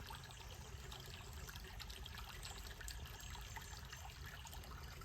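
Small waterfall where a creek tributary spills into the river: a faint, steady trickle and splash of running water.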